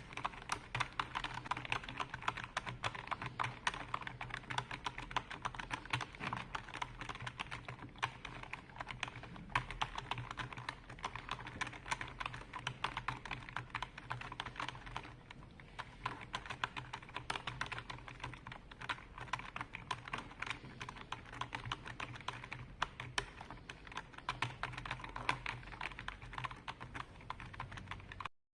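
Continuous fast typing on a computer keyboard, a dense stream of key clicks with a brief pause about halfway through. A faint steady low hum runs underneath.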